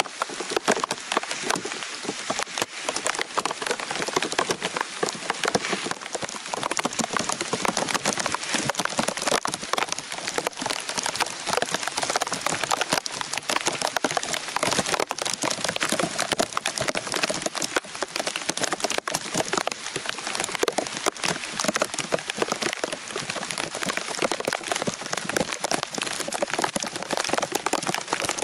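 Heavy rain falling steadily, a dense patter of countless drops on leaves and the forest floor.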